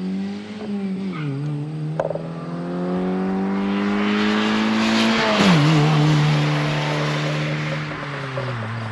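Exhaust note of a 2005 Hyundai Tiburon with its muffler deleted. The engine's pitch climbs, dips about a second in, then climbs steadily for a few seconds to its loudest. It drops sharply a little past halfway, holds, and falls again near the end.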